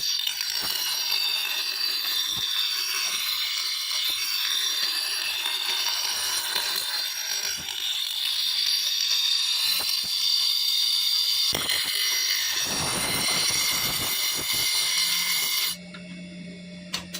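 A power tool grinding steel, a harsh high-pitched grinding noise whose pitch wavers as the work is pressed in. It breaks off near the end.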